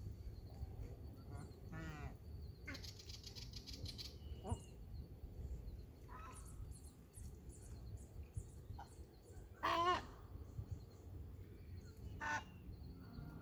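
Bird calls at scattered intervals over a low, steady background rumble, the loudest a short pitched call about ten seconds in.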